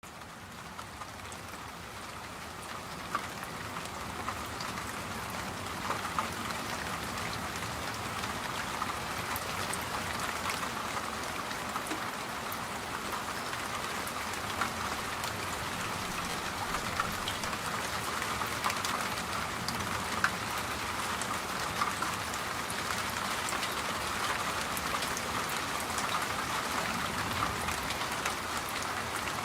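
Steady rain falling, with single drops ticking sharply here and there over the hiss; it fades in over the first few seconds and then holds.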